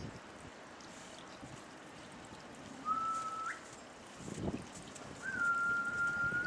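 Two whistled notes, a short one and then a longer one held steady, each ending in a quick upward flick. A short rustle comes between them.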